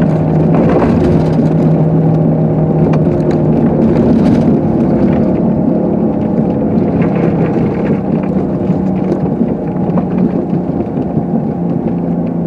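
Car engine running steadily under load while the car pushes through deep snow on an unplowed road, with scattered knocks and crunches.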